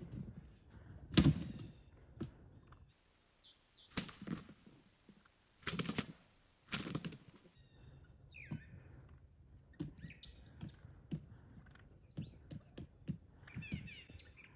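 A freshly shot wild turkey tom flopping on the ground, its wings beating in irregular loud flurries, then weaker knocks as it struggles. Small birds chirp in the later part.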